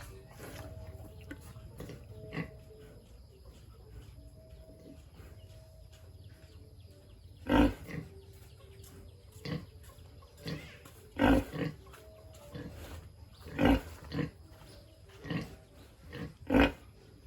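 Pigs grunting in short, loud bursts, beginning about halfway in. The four loudest come roughly three seconds apart, with smaller grunts between them.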